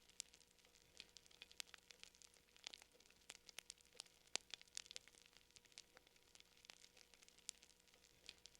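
Faint crackling of a wood fire: irregular sharp snaps and pops at uneven intervals, with no steady rhythm.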